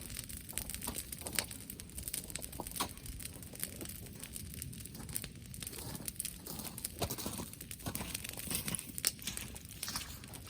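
Bonfire of mixed brushwood crackling, with irregular sharp snaps and pops over a low steady rumble.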